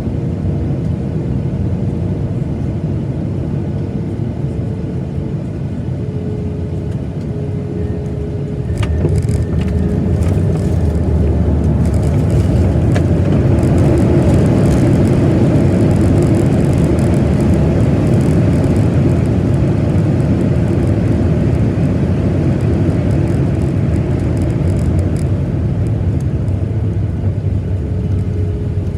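Boeing 737-900ER cabin rumble on landing. The CFM56 engines' whine falls, a jolt comes about a third of the way in, and then a louder rumble and rushing noise build and hold: touchdown, followed by reverse thrust and braking on the rollout.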